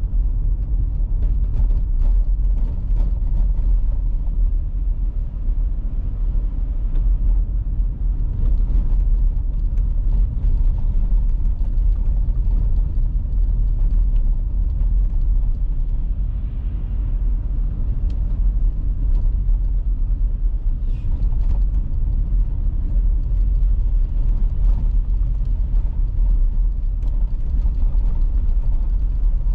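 Steady low rumble of a car driving on an icy road, with faint scattered ticks over it.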